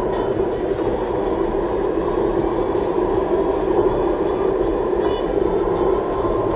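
Steady road and tyre noise with engine hum, heard from inside the cabin of a Toyota Tank driving at speed.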